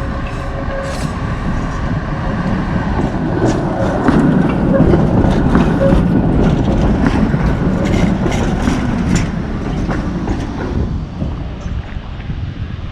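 Tram running along its track: steady wheel-on-rail rumble with a run of sharp clicks and knocks from rail joints, louder in the middle and easing off near the end.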